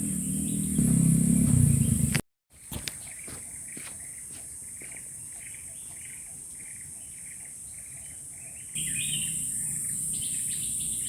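Forest ambience: a steady high insect drone with a short call repeating about twice a second. A low rumble sits under the first two seconds, the sound cuts out abruptly, and the rumble returns near the end.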